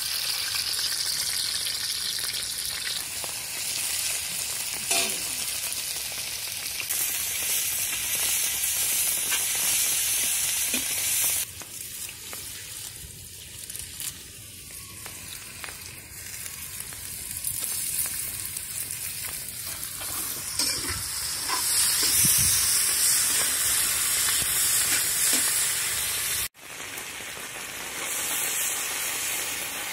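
Sliced onions and green chillies sizzling in hot oil in an iron kadai over a wood fire, a steady hiss that dips for a few seconds in the middle. Near the end the sizzle grows louder as raw fish chunks are tipped into the oil.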